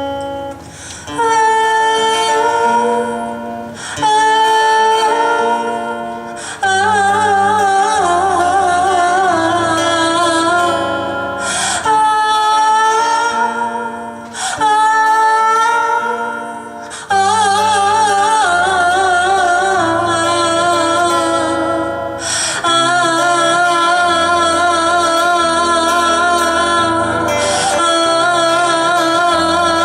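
Live band music: a woman sings long held notes with vibrato, joined by other voices in harmony, over guitar and bass, in phrases a couple of seconds long.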